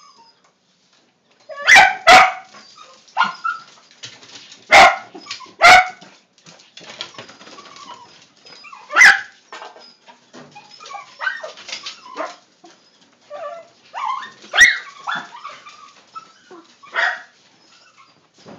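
Dog barking in loud single barks, about seven of them spread unevenly over the stretch, with quieter short sounds between.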